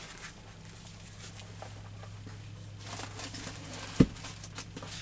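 Faint paper rustling and scissor snips as a picture is cut from a book page, over a steady low hum, with one sharp knock about four seconds in.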